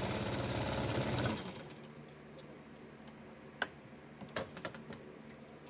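Atlas Deluxe sewing machine stitching at a fast, even rate, then slowing and stopping about a second and a half in. A few faint clicks follow.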